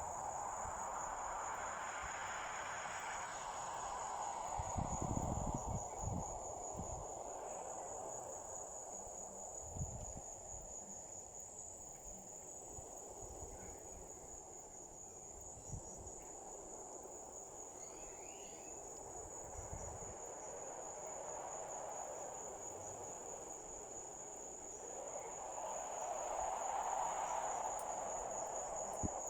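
Crickets trilling in one steady, unbroken high note, over a softer rushing hiss that swells and fades, with a few low thumps about five and ten seconds in.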